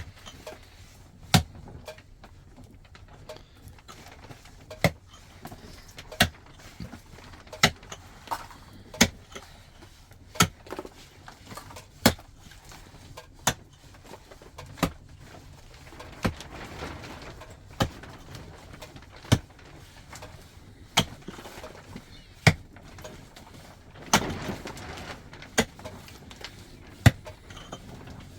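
A hand tool striking something hard over and over, in a steady rhythm of about one sharp knock every second and a half.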